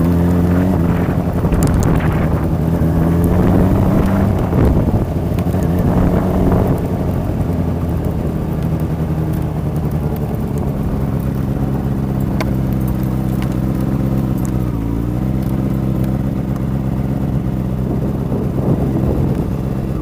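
Superbike racing motorcycle engine running at a steady, fairly low engine speed. It is louder and rougher for the first several seconds, and its pitch dips briefly and comes back about three-quarters of the way through.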